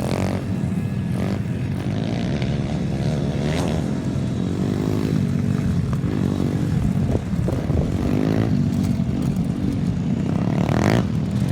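Small petrol engine of a kids' off-road bike running steadily, its pitch rising and falling as the throttle is opened and eased off.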